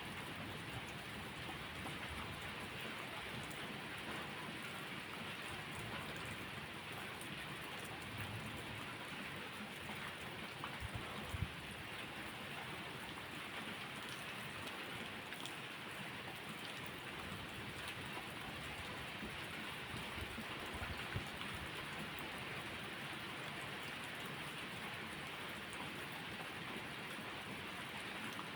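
Steady rain falling, an even hiss, with a couple of short low pops about eleven and twenty-one seconds in.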